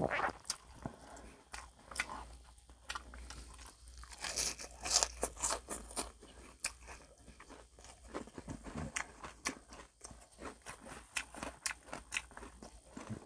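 A person chewing crisp fried food close to the microphone: irregular crackly crunches, with a louder stretch of crunching about four to five seconds in.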